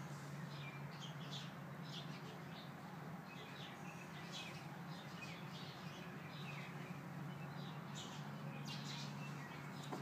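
Faint, scattered short high chirps of small birds, over a steady low hum.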